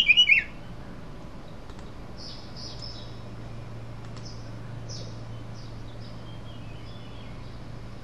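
Wild birds calling: a loud, warbling whistled call right at the start, then faint short chirps through the middle, over a steady low hum.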